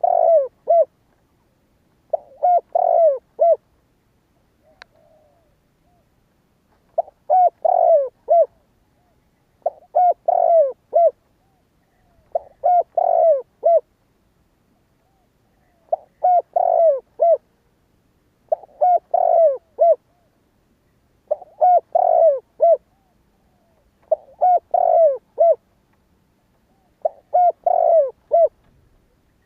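Spotted dove cooing its song over and over, each phrase a quick run of several coos, repeated about every three seconds with a longer pause around 4 to 7 s in. A single faint click about five seconds in.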